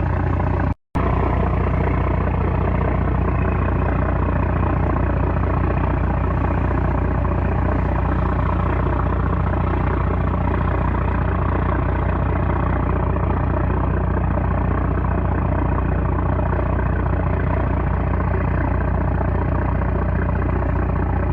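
Heavy diesel engine of a 960-horsepower fishing trawler running steadily with a deep hum, cut by a momentary dropout about a second in.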